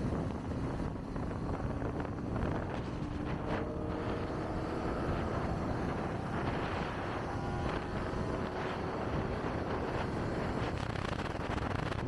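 Kawasaki Ninja ZX-25R's inline-four engine running on the move, rising in pitch as it accelerates a few seconds in, under steady wind rush on the microphone.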